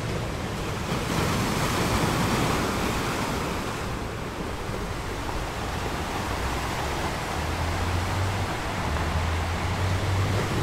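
Steady rushing noise that swells and eases, with a low hum coming and going in the second half.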